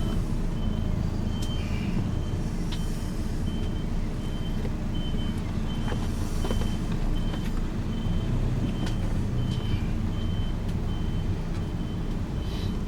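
Ambulance engine and road rumble heard from the cab, with a short, high electronic beep repeating steadily about twice a second, like a vehicle warning or reversing beeper.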